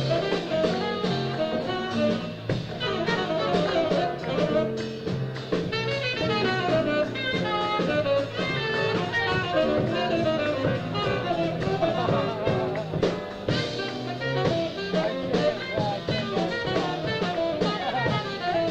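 Live jazz quartet of tenor saxophone, piano, double bass and drum kit playing together, with dense, fast-moving lines over busy drumming.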